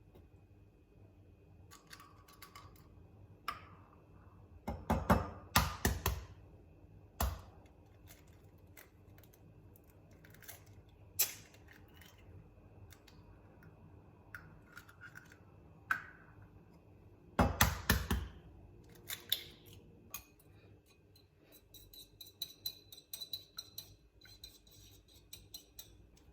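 Close handling sounds: scattered clicks, taps and short rustles of small objects being moved and worked by hand, loudest in two clusters about five and eighteen seconds in, with a run of quick light ticks near the end over a faint steady hum.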